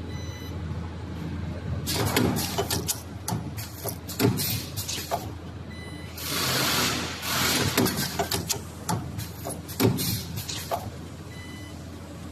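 Automatic wire ring looping and butt welding machine running through its cycle: a steady low hum with a series of sharp mechanical clacks and knocks, and a loud hiss lasting about a second midway.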